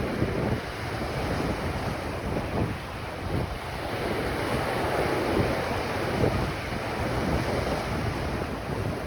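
Ocean surf washing onto a beach, a steady rush that swells about halfway through, with wind buffeting the microphone in a low rumble.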